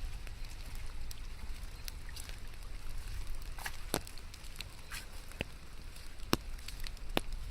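Rain: scattered drops tapping and dripping, with a few sharper drip hits, over a steady low rumble.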